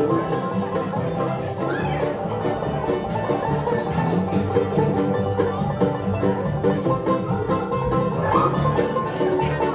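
Live bluegrass band playing an instrumental break, with banjo rolls to the fore over guitar.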